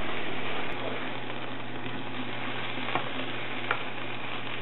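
Boiled potato cubes and fenugreek leaves sizzling in hot oil in a nonstick pan while being stirred with a wooden spatula, with a couple of light knocks of the spatula against the pan near the end.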